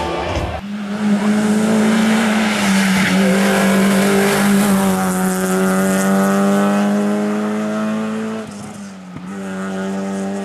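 Race car engine held at high revs, its pitch slowly rising. About eight and a half seconds in it briefly drops off and falls in pitch, then comes back on.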